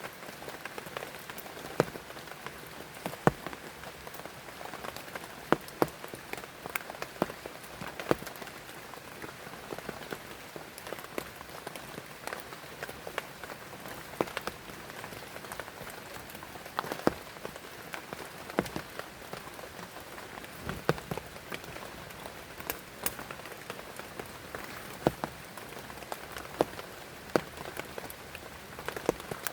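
Heavy rain falling steadily, with scattered louder drops striking close by every second or so.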